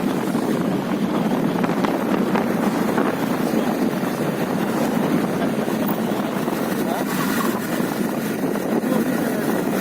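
Motorcycle running steadily on the road, with wind rushing over the microphone as a steady low rumble.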